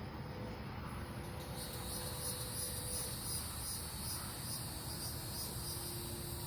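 Crickets chirping in a steady high-pitched trill that starts about a second and a half in and pulses about twice a second.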